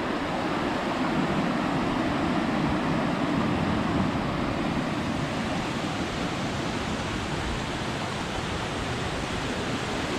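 Steady rush of a waterfall and creek water: an even noise that holds without change.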